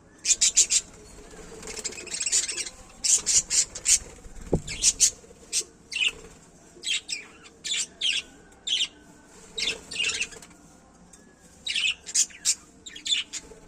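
Pet lovebirds chirping: short, sharp high-pitched chirps in quick clusters throughout, with a brief low thump about four and a half seconds in.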